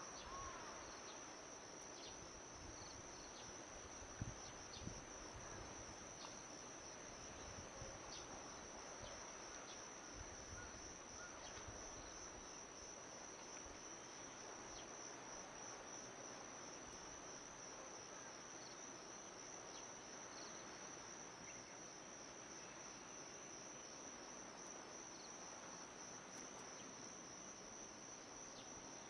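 Faint, steady high-pitched trilling of insects, cricket-like, going on without a break, with a couple of small knocks about four seconds in.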